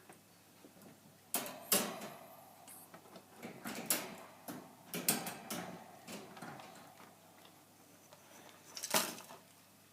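Pet rat knocking its food dish about in the cage: a series of sharp clattering knocks, the loudest about 9 seconds in, with lighter rattling in between.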